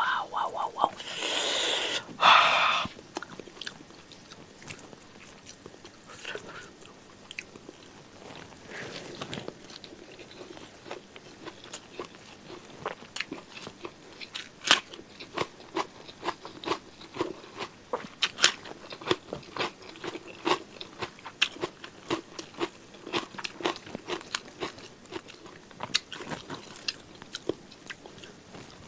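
Close-miked eating: crunching and chewing of raw cucumber, with crisp crunches about one to two a second through the second half. A loud hissing, smacking burst comes about a second in.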